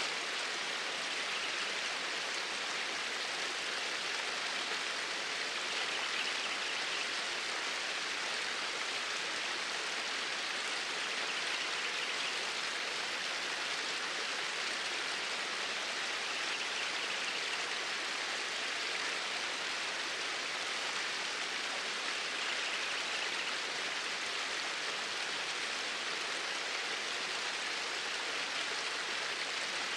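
Flowing water: a steady, unbroken rush with no change.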